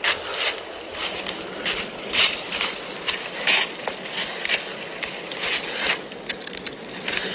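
Irregular scraping and rustling noises, several a second, coming unevenly.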